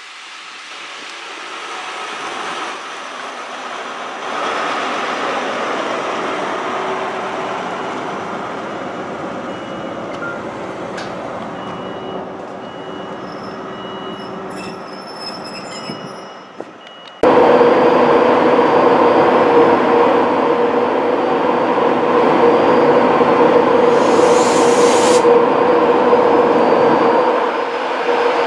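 An LNER High Speed Train's rear Class 43 diesel power car passes close and then runs away into the distance, its engine and wheel noise swelling for a few seconds and fading over about twelve. After a sudden cut, a louder steady train sound with a constant hum sets in from a train close by, with a brief hiss partway through.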